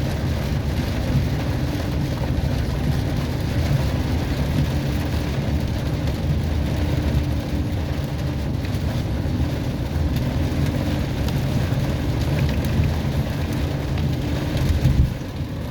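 Heavy rain and hail pelting down, a dense steady roar with many small hits, over a steady low rumble.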